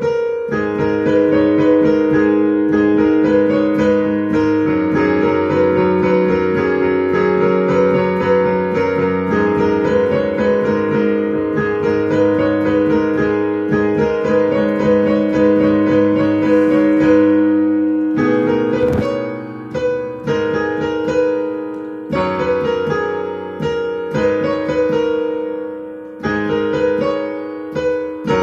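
Piano playing an instrumental tune with held chords under a melody; about two-thirds of the way through, the notes come more separately with small gaps, and there is one sharp click.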